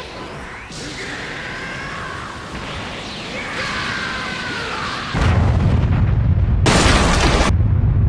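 A sudden, loud, low boom about five seconds in that carries on as a rumble, with a short burst of hiss near seven seconds. Before it, sliding whistling tones over a noisy background.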